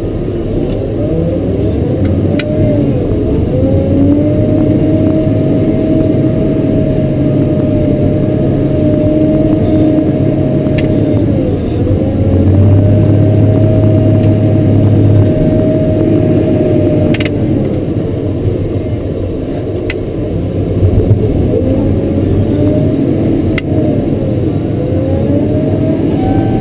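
Cat 140K motor grader's diesel engine running under load, its pitch rising and falling repeatedly as the throttle is worked, with a few sharp clicks from the machine.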